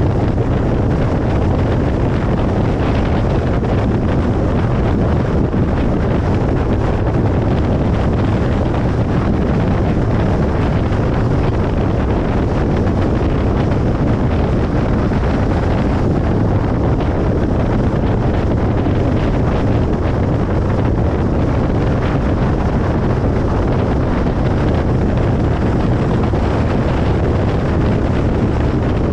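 Steady road noise of a car travelling on a highway: an even, low rumble that does not change.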